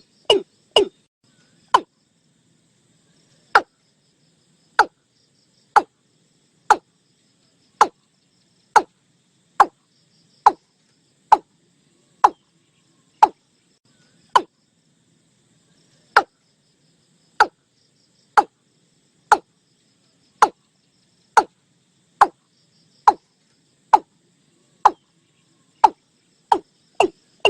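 Watercock calling: a long series of short, sharp notes, each dropping quickly in pitch. A quick run of notes opens it, then they come about once a second, speeding into another quick run near the end.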